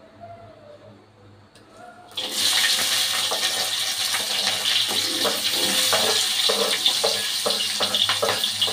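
Sliced chillies, tomato, shallots, garlic and onion dropped into hot oil in a wok: a loud sizzle starts suddenly about two seconds in and holds steady, with scattered taps as the pieces land and are pushed in from a wooden board.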